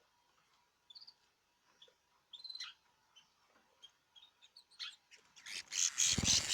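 Caged birds giving scattered short, high chirps. Near the end a loud, rapid rustling with many quick strokes sets in.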